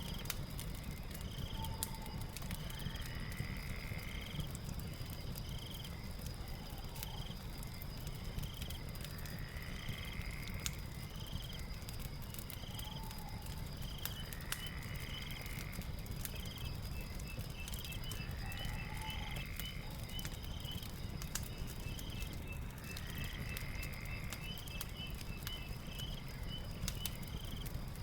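Fire crackling with scattered sharp pops over a low rumble, under a night ambience. A steady high insect trill runs throughout, and short chirping calls repeat every few seconds.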